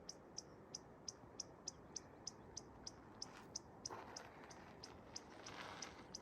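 Faint, evenly repeated short high chirps from an animal, about three a second, with a soft rustle about four seconds in and again near the end.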